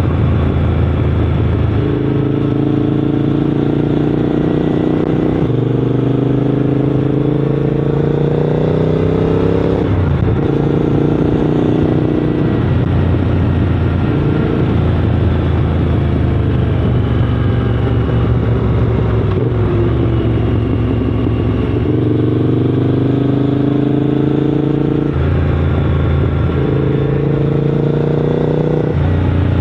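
Triumph Scrambler 900's parallel-twin engine running on the move. Its pitch climbs and drops back at gear changes several times, with a steadier stretch in the middle.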